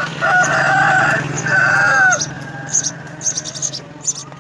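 A rooster crowing: one loud drawn-out crow of about two seconds in two parts, followed by a run of short, high chirps from house sparrows at the nest. A steady low hum runs underneath.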